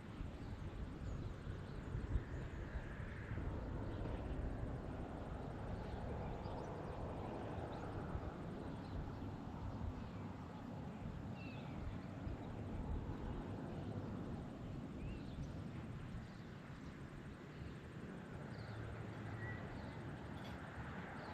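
Outdoor rural background noise: a steady low rumble, with a few faint short high chirps now and then.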